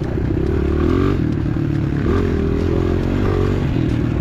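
Single-cylinder pit bike engine on an enduro trail ride, revving up and dropping back several times as the throttle is worked, with the bike rattling over rough ground.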